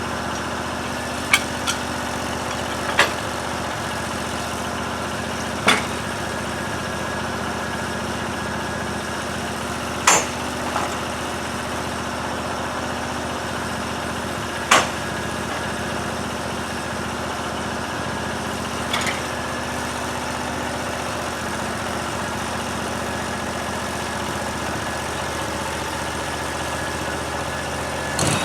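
A small engine idling steadily, broken every few seconds by sharp single clicks or knocks.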